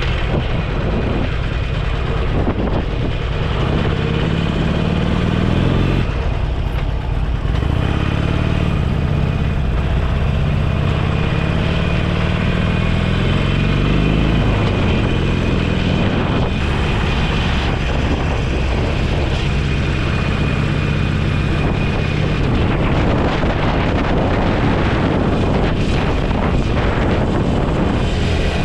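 Motorcycle engine running under way with wind rushing over the microphone; the revs climb, drop sharply about six seconds in, climb again and drop around fourteen seconds, as on upshifts, then hold fairly steady.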